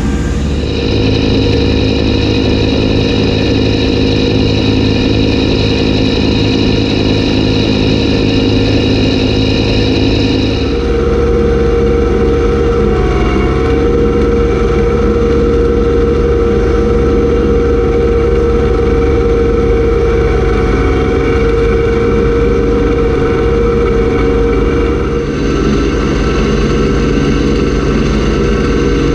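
Kubota B2601 compact tractor's diesel engine running steadily with its B2782B snowblower. Its steady drone changes character about ten seconds in and again near the end.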